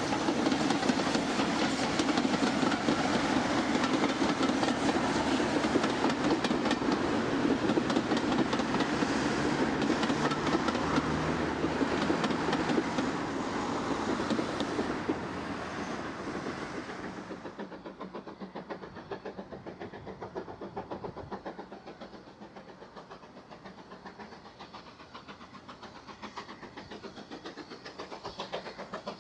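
A steam-hauled train on a heritage branch line running past close by, its wheels clattering rapidly on the rails. About two-thirds of the way through it moves away and fades to a quieter clatter.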